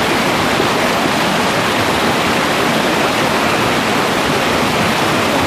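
Fast-flowing mountain stream rushing steadily, a loud, even roar of water.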